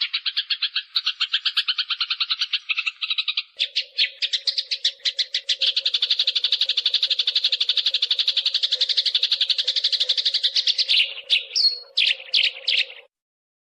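Eurasian tree sparrows fighting: a fast, unbroken chatter of sharp chirps, breaking into a few separate chirps near the end and stopping abruptly.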